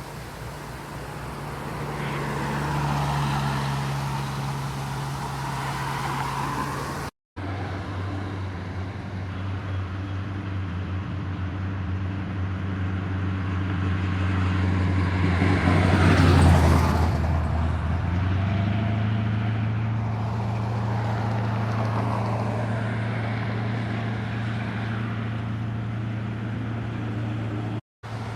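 Car engines running as vehicles drive along the street, with one passing close and loudest about sixteen seconds in. The sound cuts out briefly twice.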